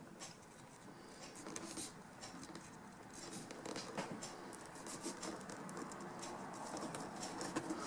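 Faint scratching and rustling with many light clicks and taps: upholstery material being handled and marked.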